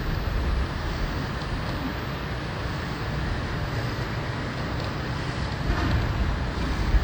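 Steady rush of wind on the microphone and street-traffic noise, heard from a moving motorbike, swelling slightly near the end.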